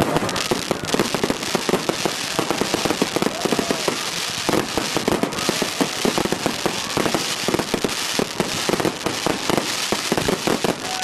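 Fireworks display exploding in a dense, unbroken volley: rapid overlapping bangs and crackles with no pause.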